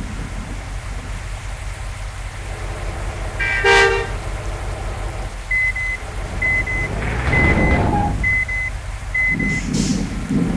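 Road traffic: a vehicle horn sounds once for about half a second a few seconds in. Short high double beeps then repeat about once a second while a vehicle passes, over a steady low rumble of engines.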